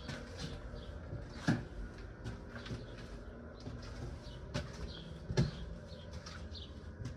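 Footsteps of someone walking outdoors, irregular knocks, two of them louder thuds, over a low steady wind rumble. Faint short bird chirps come through now and then.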